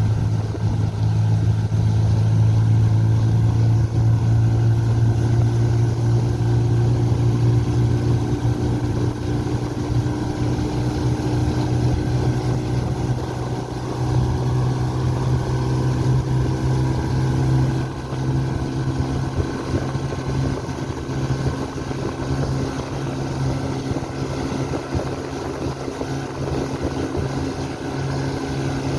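A small boat's motor running steadily at an even pitch.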